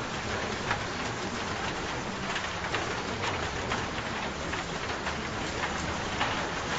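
Steady rain falling, an even hiss with scattered louder drop patters.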